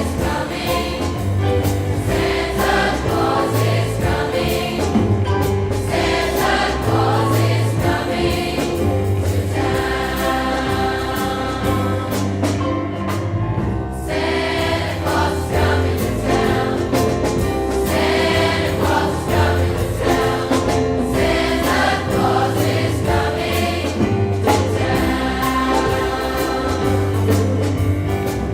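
A large mixed choir singing a Christmas song with instrumental accompaniment.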